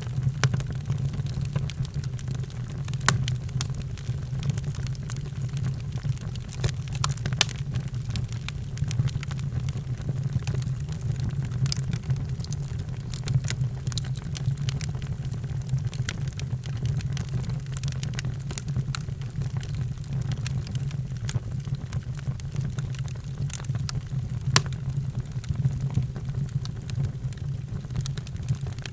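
Fireplace fire burning with a steady low rumble and irregular sharp crackles and pops scattered throughout.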